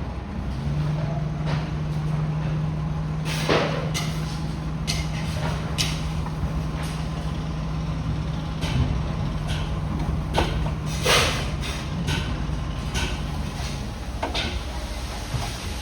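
D20 bulldozer's diesel engine running with a steady hum over a low rumble, which drops away near the end. Several sharp clanks are heard on top, the loudest about three and a half seconds in and again about eleven seconds in.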